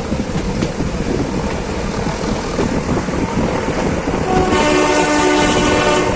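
Nilgiri Mountain Railway train running with a steady rumble, its horn sounding one long blast about four and a half seconds in.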